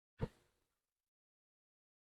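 A single short thump that dies away within about half a second.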